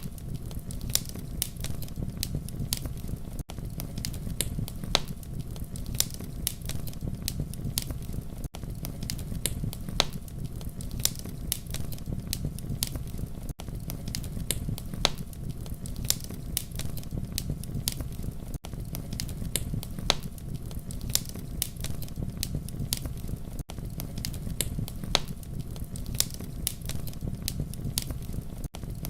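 Wood fire crackling: a steady low rumble of flames with many sharp snaps and pops throughout. A brief dropout comes about every five seconds.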